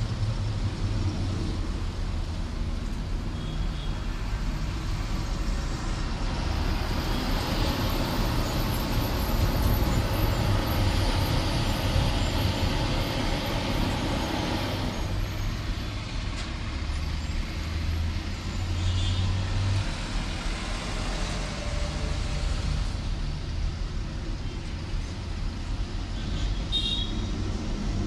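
A heavy diesel engine runs steadily while highway traffic passes, with a louder vehicle swelling past around the middle.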